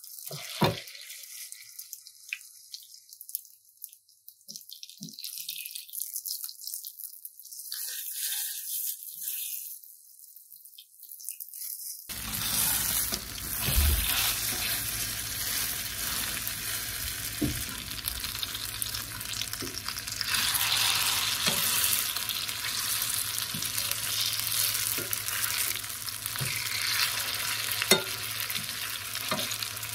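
Tofu patties frying in oil in a pan, a sizzle that turns much louder and fuller about twelve seconds in. Occasional sharp taps from a metal spatula turning the patties.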